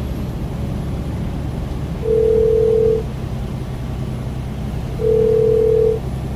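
Telephone ringback tone through the truck cab: a steady tone sounding for about a second, twice, three seconds apart, as an outgoing call rings. Under it is the steady low drone of the truck's engine.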